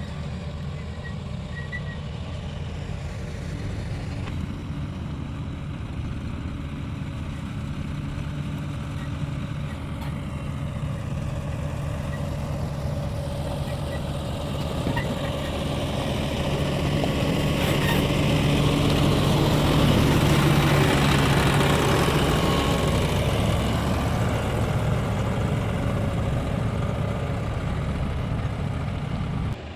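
Tractor grader's diesel engine running steadily while grading a road layer. It grows louder about two-thirds of the way through, then eases off a little.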